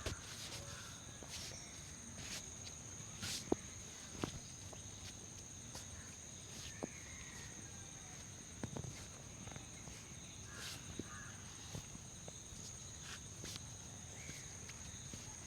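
Scattered soft taps, clicks and rustles of hands working over a head and hair during a head massage, over a steady high-pitched hum.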